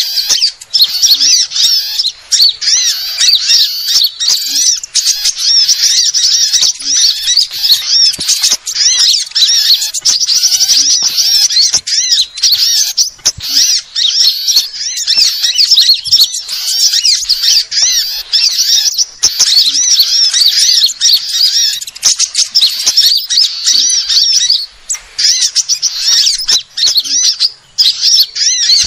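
Dense, unbroken chatter of many small songbirds: rapid high chirps and warbles overlapping one another. This is a bird-lure recording that mixes the calls of small birds to draw them in.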